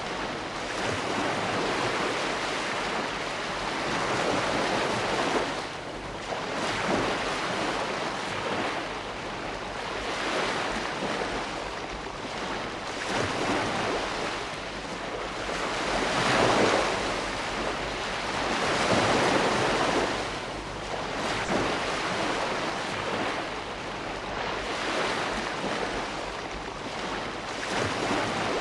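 Ocean waves breaking and washing on a shore: a steady rush of surf that swells and eases every few seconds, with the strongest surges about two-thirds of the way through.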